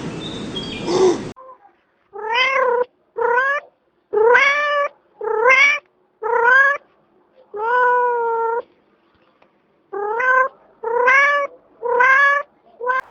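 Domestic cat meowing about nine times in separate calls, each rising and falling in pitch, with one longer drawn-out meow midway. A different sound cuts off about a second in, before the meows start.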